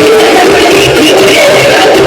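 Loud music playing through a large DJ sound system, running continuously at full volume.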